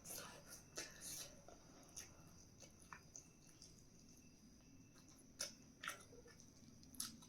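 Quiet chewing and mouth sounds of someone eating, with a few soft clicks scattered through.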